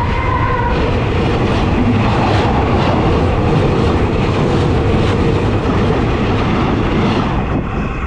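A train rolling directly over the track, heard from between the rails: a loud, steady rumble and clatter of wheels on rail that starts to fade near the end as the train passes.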